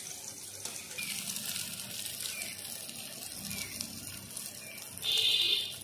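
Chopped onion, garlic and green chillies sizzling as they fry in hot mustard oil in a wok, a steady hiss. Near the end there is a short high-pitched sound, the loudest moment.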